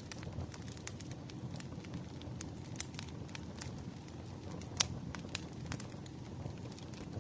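Wood fire crackling: irregular sharp pops and snaps from burning logs over a low, steady rumble, with one louder pop about five seconds in.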